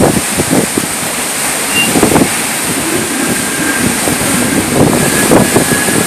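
Violent typhoon wind gusting, rising and falling in surges, with the wind buffeting the microphone.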